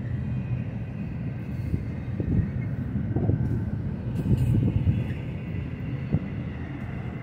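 Double-stack intermodal well cars of a freight train rolling slowly past. Steel wheels on rail make a low rumble, with irregular clunks and rattles from the cars.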